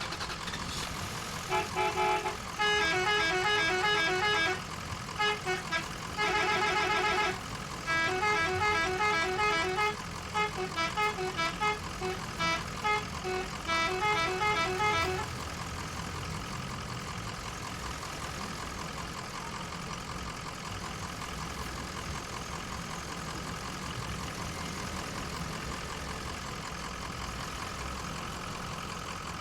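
Multi-tone truck horn playing a run of rapid warbling, alternating-note toots in several bursts for about the first half, then stopping about halfway through; a steady engine-like hum continues after it.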